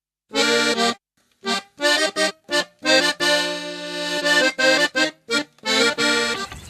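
Short accordion tune: clipped chords in quick stabs with one longer held chord midway, stopping just before the end.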